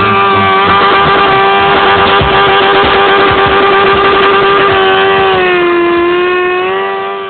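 Motorcycle engine held at high revs, giving a loud, steady high-pitched note. The revs dip slightly about five and a half seconds in, climb back, and the sound fades out near the end.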